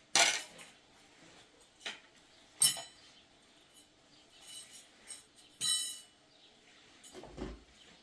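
Dishes or utensils clinking and clattering: four sharp knocks with a brief ringing tail, spaced a second or more apart, then a duller low thud near the end.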